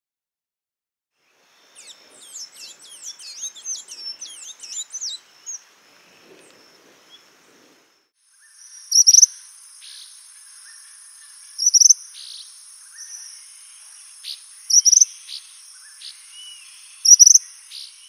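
Wild birds calling: a quick run of high, twittering chirps starting about two seconds in, then, over a steady high insect trill, four loud sharp high calls spaced roughly two and a half to three seconds apart.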